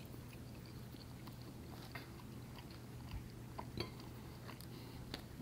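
Faint chewing and biting of a packaged cherry snack pie, with a few small crackles of the pastry crust, over a steady low hum.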